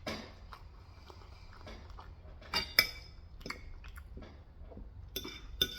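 Eating at the table: scattered light crunches and sharp clicks of chewing Korean fried chicken and handling utensils, the loudest pair about two and a half seconds in.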